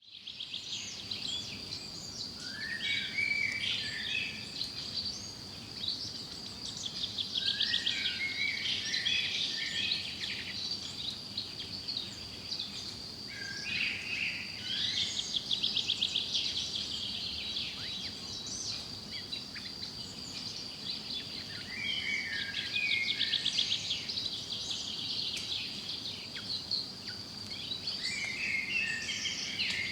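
Forest birds singing: one bird repeats a short tumbling phrase about every six seconds, between rapid high trills from other birds. A steady high-pitched whine runs underneath throughout.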